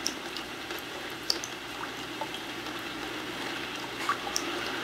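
Steady storm rain, with scattered sharp drips and taps against it.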